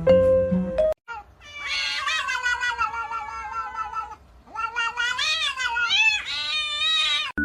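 Domestic cat yowling twice: one long, drawn-out meow that slowly falls in pitch, then a second long call that wavers up and down. A bit of plinking background music plays first and cuts off about a second in.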